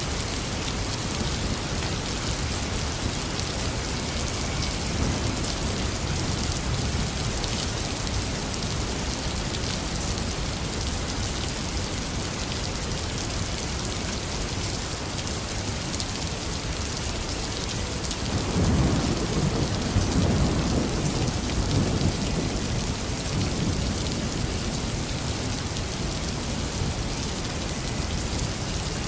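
Heavy rain falling steadily, with a roll of thunder rumbling for a few seconds about two-thirds of the way through.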